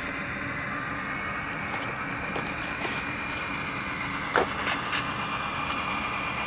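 Model Atlas GP40 locomotive's Tsunami sound decoder playing diesel engine sound through its small onboard speaker, running steadily, with a few sharp clicks, the loudest about four and a half seconds in.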